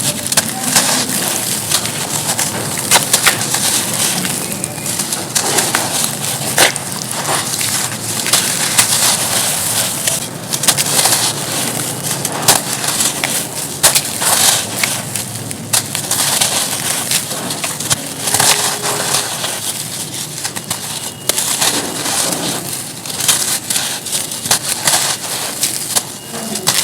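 Pure charcoal being crumbled: a continuous dense crunching and crackling with many fine crisp clicks.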